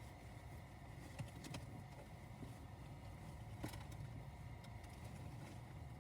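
Quiet car interior: a low steady hum with a few faint clicks and taps of small objects being handled, the clearest a little past halfway.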